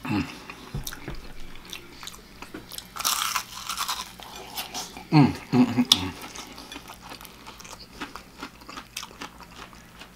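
Close crunching bites and chewing of a crispy deep-fried chicken drumstick, with one loud crunch about three seconds in. A brief low hum from the eater comes about five seconds in.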